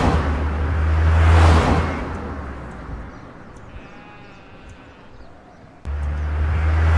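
Sheep bleating: a loud stretch that fades out about three seconds in, a quieter gap, then a second loud stretch starting abruptly near the end.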